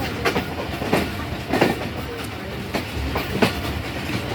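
Passenger train running on the track: wheels clicking and knocking over rail joints about once or twice a second, over a steady rumble of the carriage.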